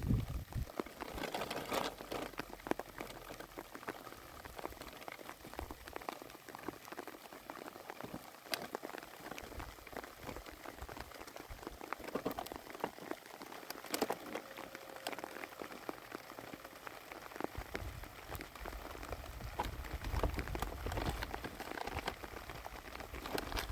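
Rain pattering steadily, a dense scatter of irregular drop ticks, with a low rumble joining in during the last few seconds.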